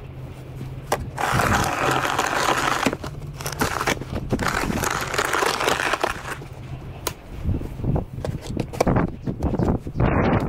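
Snow shovel scraping and pushing snow across pavement in repeated strokes of about two seconds each, with gritty crunching and knocks, over a steady low hum that stops about two-thirds of the way through.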